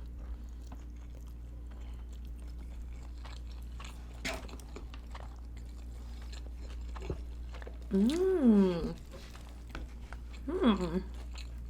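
Close-miked chewing and biting of a grilled beef bun, with small wet mouth clicks over a steady low hum. About eight seconds in and again near the end, two drawn-out "mmm" sounds of enjoyment, rising and falling in pitch.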